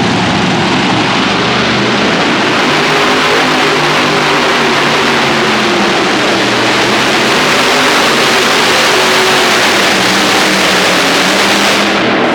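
Modified pulling tractor's engine running hard at high power, a loud, steady, dense sound that swells slightly around the middle.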